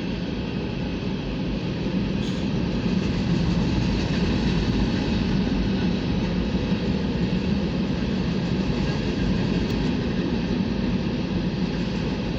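Norfolk Southern mixed manifest freight train rolling past, a steady noise of its cars on the rails that grows a little louder about two seconds in.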